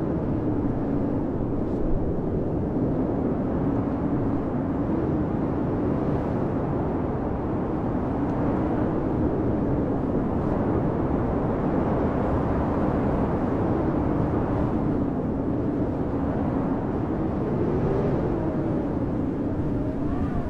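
Blizzard wind blowing steadily, with a low moaning tone that wavers in pitch throughout and a rising whistle near the end.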